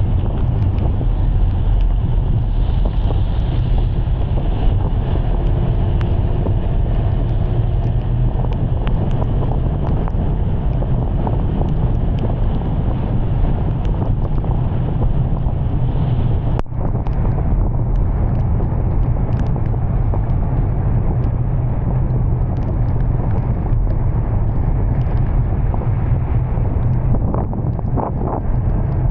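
Wind buffeting the microphone in heavy rain: a steady, loud low rumble with a hiss of rain and scattered small ticks. A single sharp click a little past halfway.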